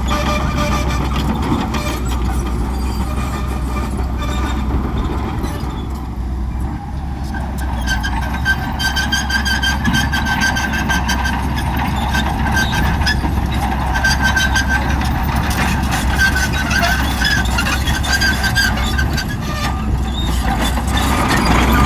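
Shantui crawler bulldozer working: its diesel engine runs steadily with a deep hum, while the steel tracks give off high squealing and rapid clanking. The sound dips briefly about six seconds in, then picks up again.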